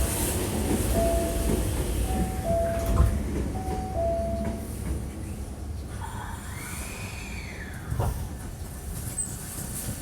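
Hankyu 1300 series train at a station: a two-note falling chime repeats three times as the doors close, over a low rumble. About six seconds in, a whine rises and then falls as the train's traction equipment starts it moving, with a short knock about two seconds later.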